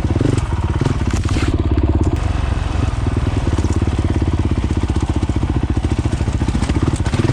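Honda CRF450 dual-sport motorcycle's single-cylinder four-stroke engine running steadily while riding, in even, rapid pulses.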